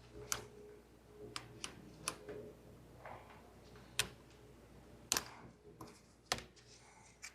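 About ten irregular sharp clicks and light knocks from hand work on a car's engine wiring harness: plastic connectors and parts being handled and unclipped.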